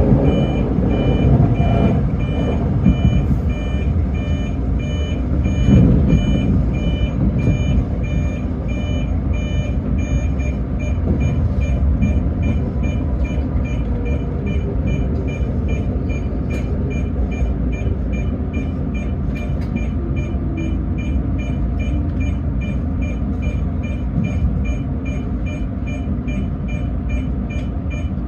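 Electric commuter train running, a steady low rumble, with an electronic beep repeating at one unchanging pitch about twice a second, the beeps coming quicker after about ten seconds.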